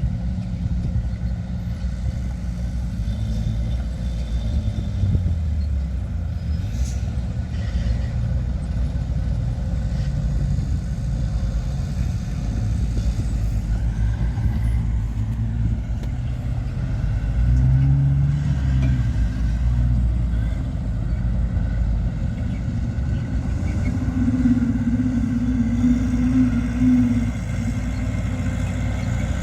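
Diesel engines of heavy earthmoving machinery running under load, a steady low drone whose pitch rises and shifts about two-thirds of the way in and again near the end.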